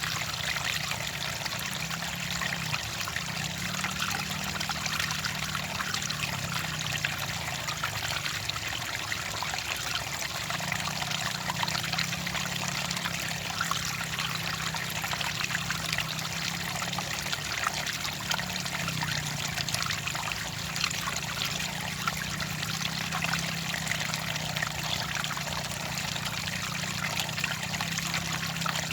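Clear water trickling and splashing steadily, like a small stream, with a faint, slowly wavering low hum underneath.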